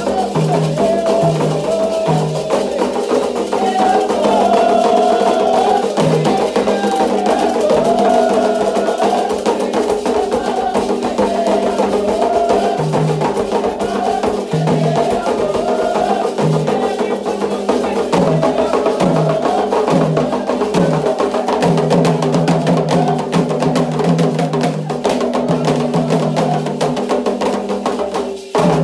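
Candomblé toque for Ogum: atabaque hand drums and a struck bell keep a steady, driving rhythm under voices singing a chant for Ogum. The music dips briefly near the end.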